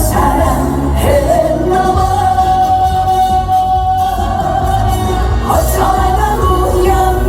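Live trot song: a male singer over an amplified band backing, holding one long steady note from about a second in until about four and a half seconds, then singing on.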